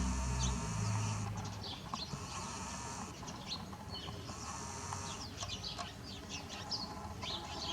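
Faint outdoor ambience with scattered short bird chirps, and a low rumble that fades out about a second and a half in.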